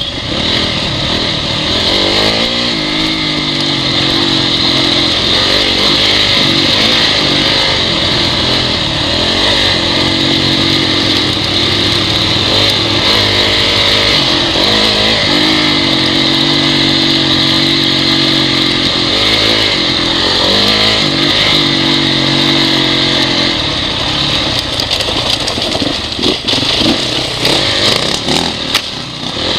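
Honda CRF four-stroke single-cylinder dirt bike engine running as it is ridden off-road, its pitch rising and falling with the throttle, with stretches held steady. A constant hiss runs over it.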